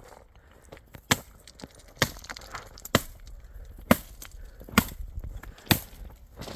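Axe chopping firewood: six sharp strikes, evenly paced about one a second.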